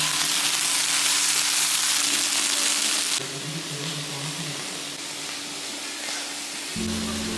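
Mixed vegetables (green beans, green pepper, tomatoes, baby corn and mushrooms) sizzling as they fry in a pan, a loud steady hiss that drops to a softer sizzle about three seconds in.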